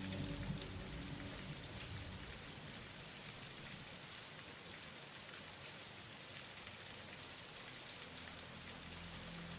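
Steady rain falling, an even hiss of drops. Soft sustained background music fades out in the first second or so and comes back faintly near the end.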